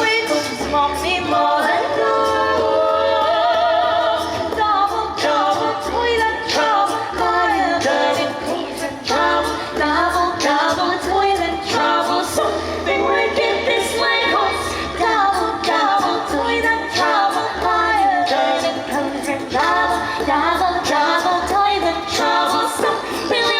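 A small choir singing a cappella in several voice parts, the melodies moving and gliding continuously.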